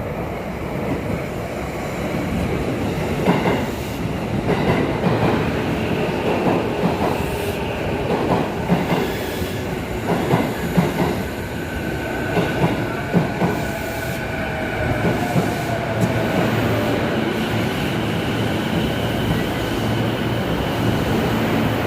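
Chuo Line electric commuter train running along the station platform, its wheels clattering and clicking over the rails, with a faint whine that falls in pitch midway. Wind buffets the microphone throughout.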